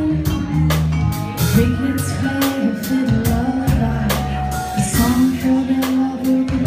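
Live band music: a drum kit keeps a steady beat under a bass line and held melody notes.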